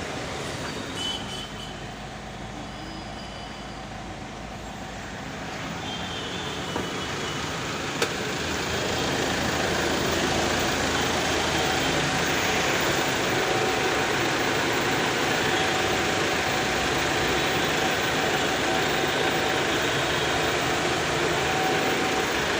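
Car engine running during an engine carbon-clean (decarbonizing) service, a steady mechanical noise that swells about a third of the way through and then holds louder and steady. A single sharp click comes about 8 seconds in.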